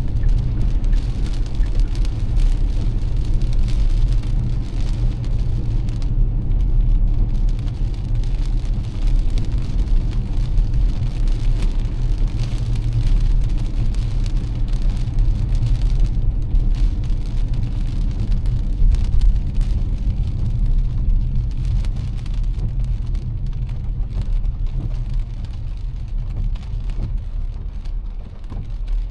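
A car driving in heavy rain: a steady low rumble of the car and its tyres, with the hiss of rain and the wet road over it.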